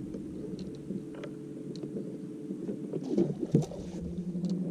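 Boat motor running with a steady hum, whose pitch drops to a lower steady note about three seconds in as its speed changes.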